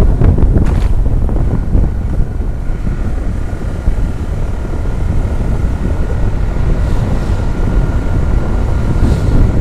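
Heavy truck driving on the road: a steady low rumble of engine and tyres with wind buffeting the microphone, and a faint steady whine running over it.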